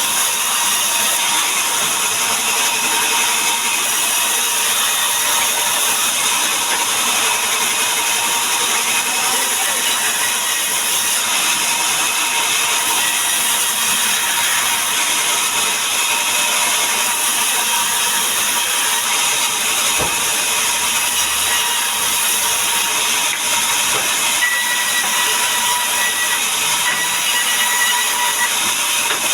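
Powered wood saw running steadily through a cut in mahogany: a loud, even hiss of the blade in the wood that stays the same throughout.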